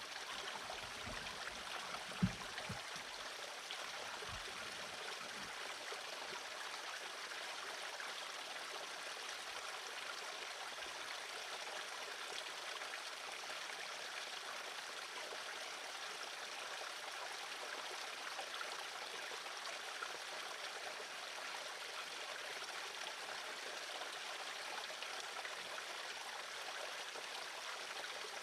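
Steady rushing noise like running water, with a few soft low thumps in the first few seconds.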